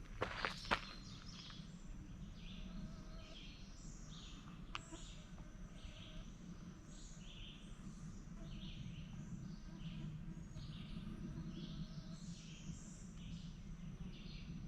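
A few footsteps in the first second, then quiet outdoor ambience: a short high chirp repeats about every half second over a faint steady low hum.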